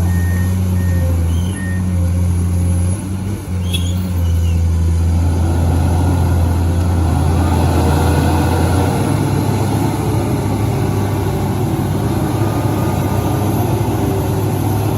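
Heavy diesel engine of earth-moving or haulage machinery running steadily. A warning alarm beeps about twice a second for the first two seconds, and the engine sound changes and grows fuller about five seconds in.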